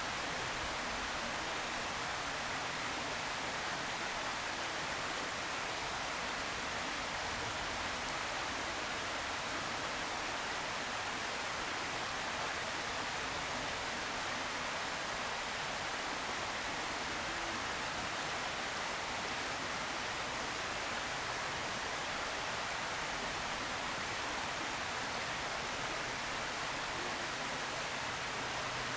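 Steady, even hiss with no distinct calls or events.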